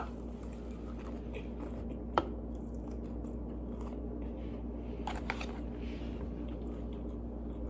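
Biting into and chewing a fried chicken sandwich on a glazed donut bun, with one sharp crunchy click about two seconds in and a few small ones later, over a steady low hum.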